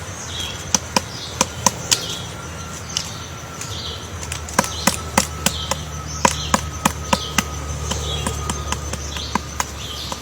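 Woodpecker pecking into wood to dig out a nest hole: sharp, irregular taps, about three a second, in two runs with a pause of a second or so between them. Short high bird chirps come in between the taps, over a low hum.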